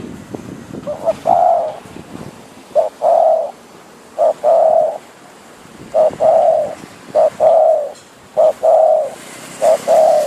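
A decoy spotted dove cooing, its phrase repeated about seven times, every second or two, each a short note followed by a longer drawn-out coo.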